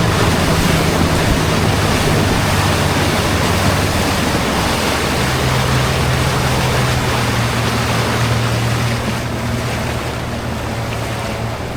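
A motorboat's engine running steadily under a loud rush of water and wind. The engine's hum shifts to a slightly different pitch about five seconds in.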